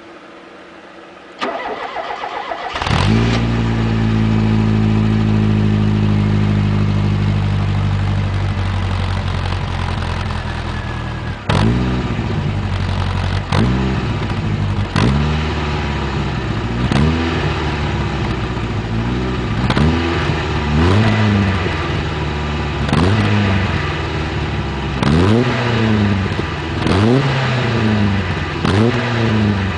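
1988 Ford Escort XR3i's 1.6-litre four-cylinder engine with a Supersprint rear silencer, cranked by the starter for about a second before it catches. It idles steadily, then from about eleven seconds in it is blipped repeatedly, each rev rising and dropping back to idle. The exhaust note is a little deeper than the stock exhaust.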